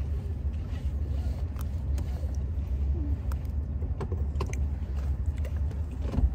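Steady low rumble inside a stationary car's cabin with the engine running, with scattered light clicks and rustles.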